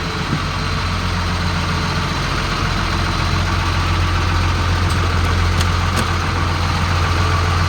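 Diesel engine of a 2002 Sterling M8500 bucket truck, a 5.9-litre Cummins inline-six, idling steadily and growing slightly louder toward the end. A few faint light ticks come about five seconds in.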